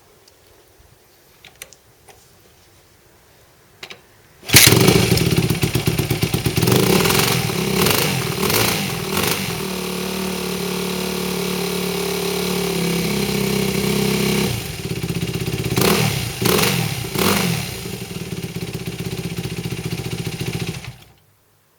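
Yamaha WR250F's 250 cc single-cylinder four-stroke engine firing up about four seconds in, blipped a few times, settling to a steady idle with more throttle blips, then cut off abruptly near the end.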